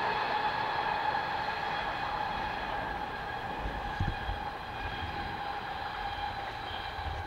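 Train running through the marshalling yard and slowly fading, a steady high-pitched whine with several overtones over a rolling rumble. A few low thumps about four seconds in.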